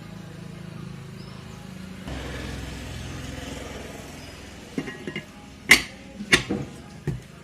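A low steady hum, then a run of sharp knocks and clicks, about seven strikes in the last few seconds, the loudest a little before the end.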